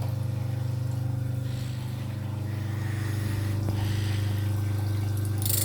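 Electric grinder motor running steadily at speed with a low hum, ready for sharpening a knife. A brief high hiss near the end.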